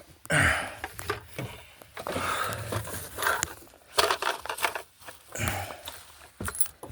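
A man breathing hard in the attic heat, with a breathy swell about every second, mixed with the rustle of his movement.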